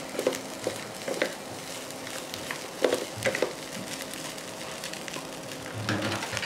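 Fried rice sizzling in a frying pan as it is tossed and stirred with a wooden spatula and chopsticks. The utensils make scattered clacks and scrapes against the pan, a few near the start, a cluster about three seconds in, and more near the end.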